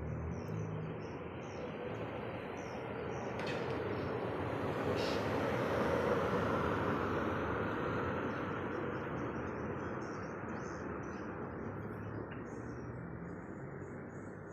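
Swiftlets chirping in short, high twitters over a loud rushing noise that swells to its loudest about six seconds in and then slowly fades.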